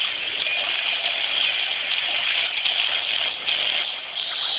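Churning seawater: a steady rush of water and bubbles, with no clear single splash or strike standing out.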